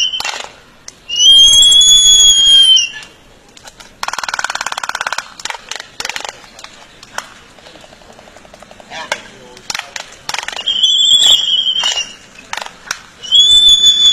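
Birds calling: loud, long whistled notes that rise and fall, three times, with a harsh rapid rattling call about four seconds in and scattered clicks between.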